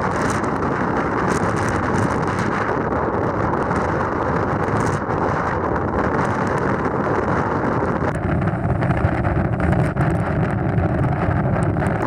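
Strong wind buffeting the microphone: a loud, steady rush of wind noise. About two-thirds of the way through, a faint steady hum appears under it.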